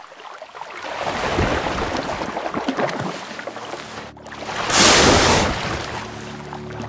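Sea water sloshing and splashing, with one louder rush of splashing water about five seconds in.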